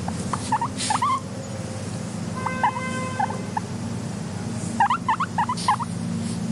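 Guinea pig squeaking in quick bursts of short chirps, with a brief held squeal about three seconds in and a couple of soft rustles. A steady low hum runs underneath.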